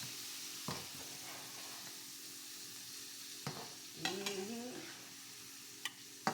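Food sizzling steadily as it fries on a hot surface, with a few sharp clicks of a utensil against the cookware.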